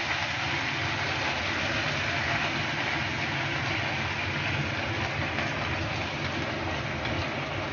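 Canned tuna and its oil sizzling in a pan of hot oil: a steady frying hiss with a low hum underneath.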